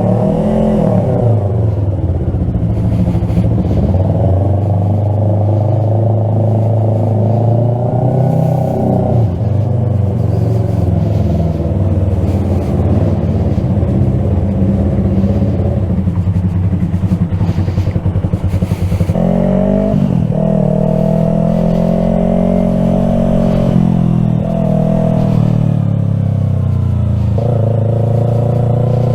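Yamaha R3 parallel-twin motorcycle engine running while riding, its pitch rising and falling with throttle and gear changes; clear shifts come about a third of the way in, about two-thirds in, and near the end.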